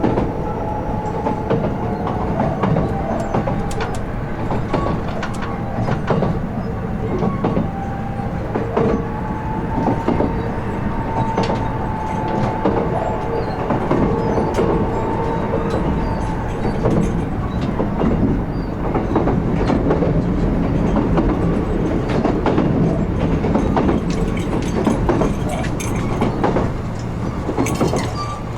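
Kintetsu 16600 series electric train running, heard from the car end: wheels clicking over the joints of jointed rail, with a steady whine from its Hitachi-built traction equipment that fades out about halfway through.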